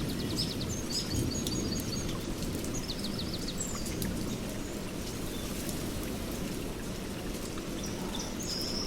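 Steady rain with a low rumble under it, and birds chirping in short high trills about half a second in, around three seconds in, and again near the end.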